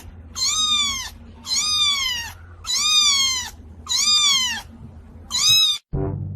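A cat meowing five times in a row, about once a second. Each meow is loud and high-pitched, rising then falling in pitch.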